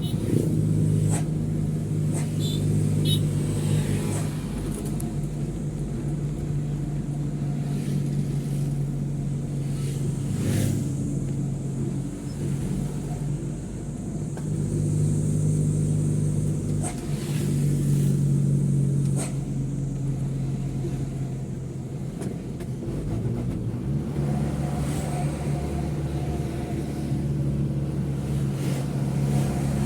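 Mitsubishi Fuso truck's diesel engine running on the road, heard from inside the cab, its low note growing and easing as the driver works the throttle. Short clicks and rattles come through now and then.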